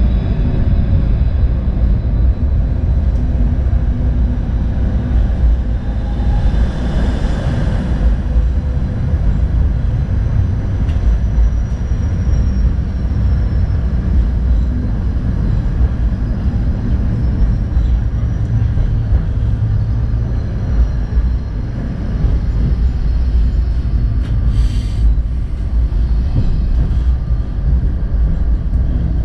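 City tram running along its line: a steady low rumble of the wheels on the rails and the running gear, with a brief swell of hiss about a quarter of the way in and a short hiss near the end.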